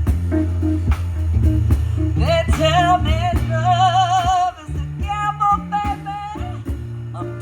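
Live blues band playing, with a steady bass and rhythm guitar groove; from about two seconds in a lead melody line comes in over it, bending and held with vibrato.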